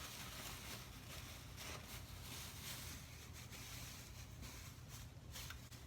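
Cooking oil heating in a disposable aluminum pan, faintly sizzling with a steady hiss and light crackle as it comes up to frying temperature, over a low steady hum.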